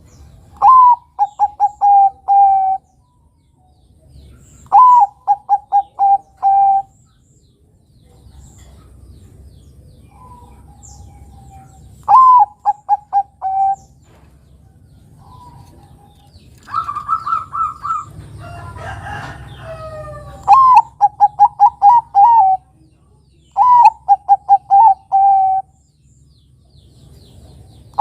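Perkutut (zebra dove, Bangkok type) singing its staccato cooing song. It gives five loud phrases, each a rising opening note followed by a quick run of about five clipped coos. Around the middle a higher run of notes and a jumbled stretch break in.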